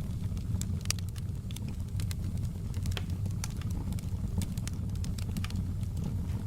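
Wood fire crackling in a fireplace: irregular sharp pops and snaps, several a second, over a low steady rumble of burning.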